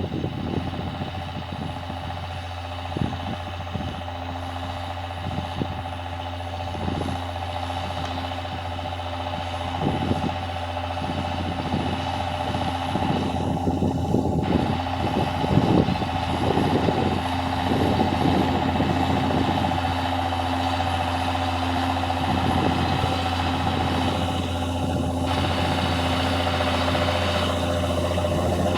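John Deere tractor's diesel engine running steadily under load while plowing, a constant low drone with frequent irregular knocks and clatter.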